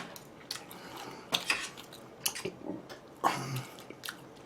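Close-miked eating sounds: a person chewing and biting food, with scattered small clicks and wet smacks.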